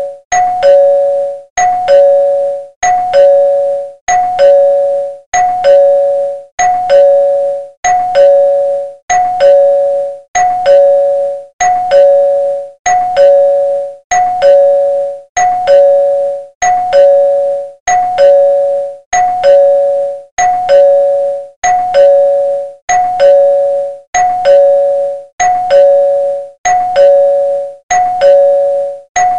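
Two-tone ding-dong doorbell chime ringing over and over, a higher note then a lower note, about once a second.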